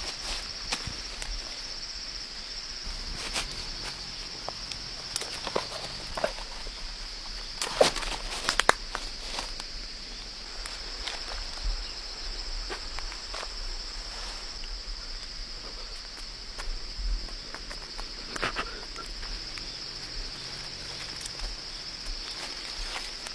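Steady high-pitched insect chorus, with scattered knocks, rustles and footsteps from someone moving and handling things. The sharpest knocks come about eight seconds in.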